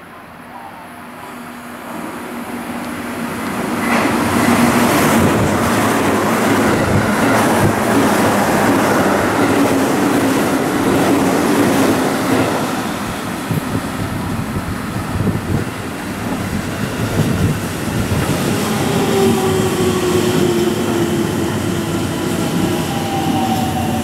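JR Central 211/313-series electric train passing through the station at speed. A rising rumble swells over the first few seconds into loud wheel-on-rail clatter and rushing air, which holds for about ten seconds. From about 19 s a train's motors give a falling whine, several tones gliding down together.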